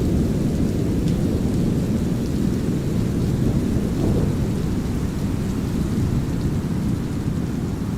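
Brown noise with a deep rumble of thunder under it and a light hiss of drizzling rain, steady throughout.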